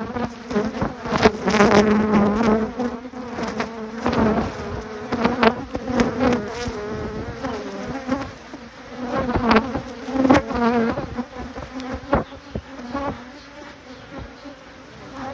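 Honeybees buzzing thickly around an opened hive, individual bees flying close past the microphone so the buzz swells and bends in pitch, loudest around the first few seconds and again about ten seconds in. A few sharp clicks cut through the buzzing.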